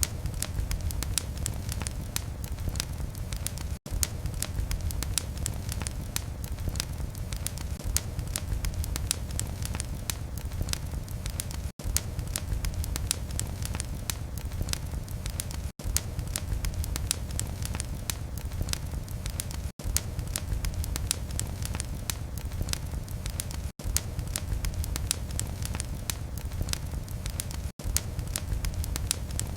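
Wood fire crackling in a fireplace: dense small pops and snaps over a steady low rumble of flames. The sound cuts out for an instant every four to eight seconds.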